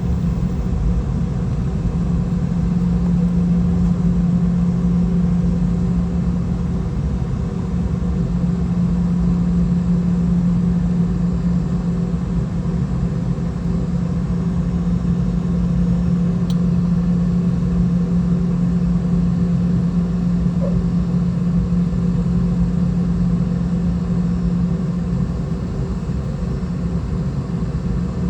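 Steady cabin noise of a Boeing 717-200 with its rear-mounted Rolls-Royce BR715 turbofans running: a constant drone with a low, even hum and no change in power.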